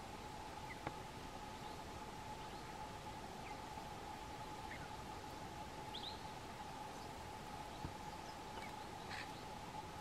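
Scattered short, faint bird chirps from a flock, over a steady hiss and a faint steady hum. Two sharp clicks, about a second in and again near eight seconds.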